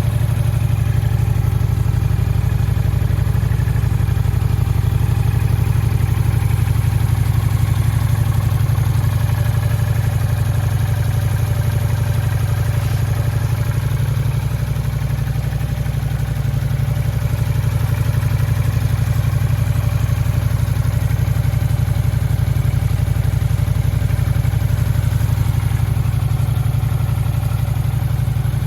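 Honda VT400S motorcycle's V-twin engine idling steadily, with no revving.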